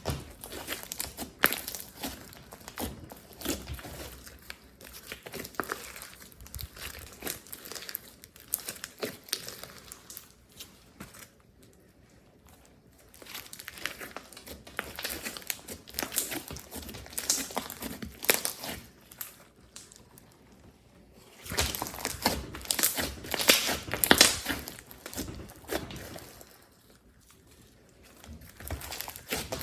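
Slime being squished and stretched by hand, giving a dense run of small sticky clicks and pops. It goes quieter about ten seconds in and again near twenty seconds, then comes back louder for a few seconds.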